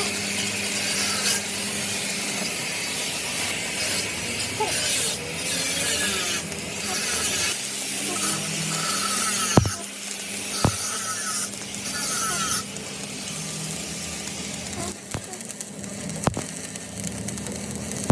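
Workshop tool noise: a hissy, rasping sound that comes and goes over a steady low hum, with two sharp knocks about halfway through.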